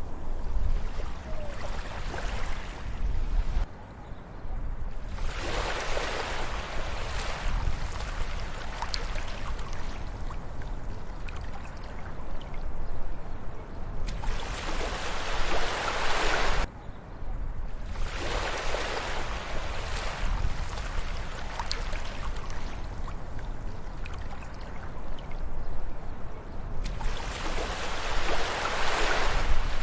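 Ocean waves breaking and washing up a beach, the surf swelling and ebbing in surges every several seconds, over a steady low rumble.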